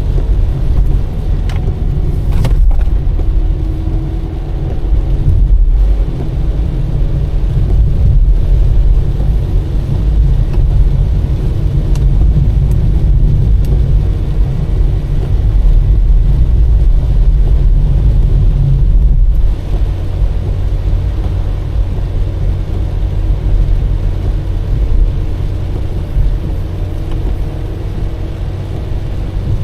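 A car driving, a steady low road and engine rumble with a few faint clicks; the rumble eases a little about two-thirds of the way through.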